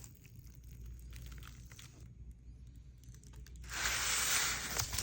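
A burrito's wrapping being handled, with faint rustles, then torn open with a steady tearing rasp that starts abruptly about three-quarters of the way through.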